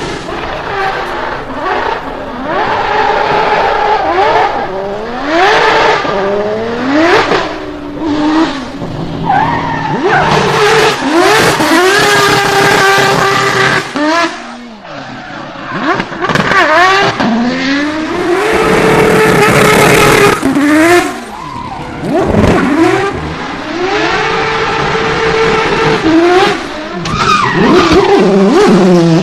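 Drift car engine revving hard, its pitch climbing and dropping over and over as the throttle is worked, with tyres squealing through the slides. It eases off briefly about halfway through.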